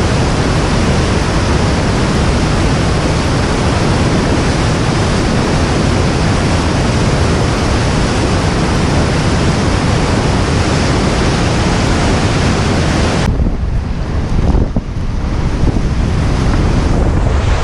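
Whitewater rapids on the North Santiam River rushing with a loud, steady hiss. About thirteen seconds in, the hiss suddenly cuts out, leaving a low, muffled rumble.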